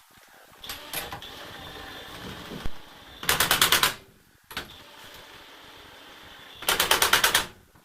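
Impact wrench hammering in two short bursts of rapid blows, a few seconds apart, running on wheel nuts.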